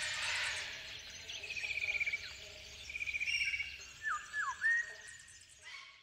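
Birds calling outdoors: two rapid, rattling trills, then three short downward-slurring whistles near the end, over faint outdoor background noise. The sound fades out at the close.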